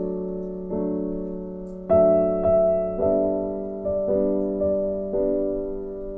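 Soft background piano music: chords struck about once a second, each fading away.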